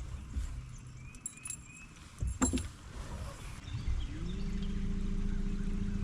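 Low knocks and bumps in a fishing boat with a sharp click about two and a half seconds in; about four seconds in, a boat motor spins up and runs with a steady hum.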